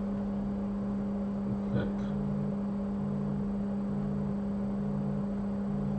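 Steady electrical hum from workbench equipment, with a second, lower hum switching on and off about once a second.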